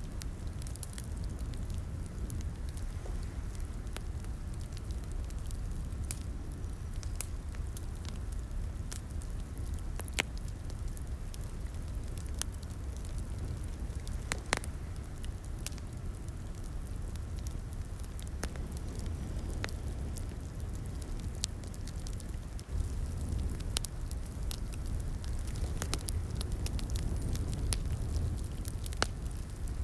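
Wood fire crackling in a fireplace: a steady low rumble of burning with scattered sharp pops and snaps, a few of them louder.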